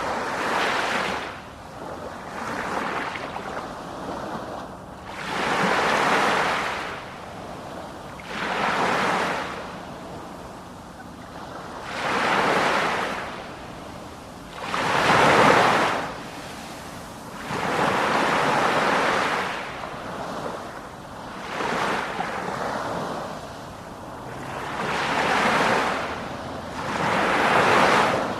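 Ocean waves breaking on the shore, one surge of surf every three to four seconds with a quieter wash between them. Wind buffets the microphone.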